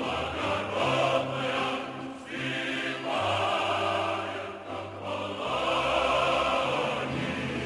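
Choral music: a choir singing long held chords in phrases over a low bass line.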